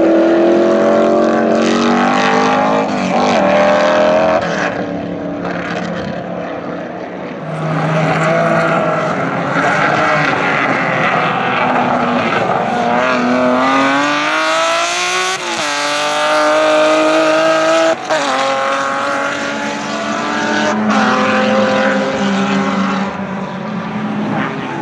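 Racing car engines at high revs on a circuit, the pitch climbing through each gear and dropping back at the shifts, with more than one car going by.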